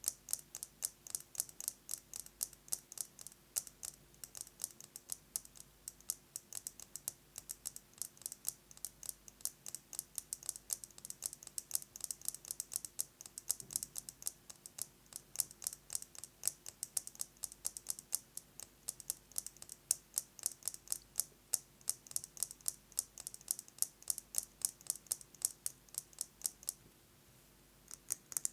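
Fast fingernail tapping on a metal lipstick case: quick, sharp, bright clicks, several a second. The tapping stops for a moment near the end.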